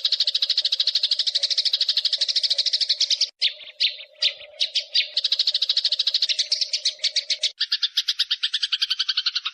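Eurasian tree sparrows chattering in a fast, continuous rolling trill of about fifteen notes a second, the agitated call of fighting sparrows. A steady low hum lies under it. The run breaks into a few scattered notes about three seconds in, then changes abruptly to a lower, harsher chatter about seven and a half seconds in.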